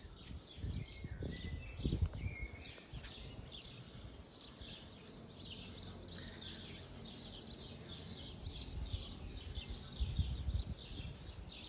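Small birds chirping in short, high, repeated calls, several a second. Low thumps come and go near the start and again about ten seconds in.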